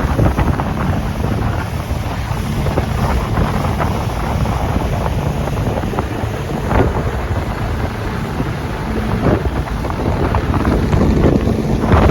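Wind buffeting the microphone on a moving motorboat, over the steady running of the boat's motor.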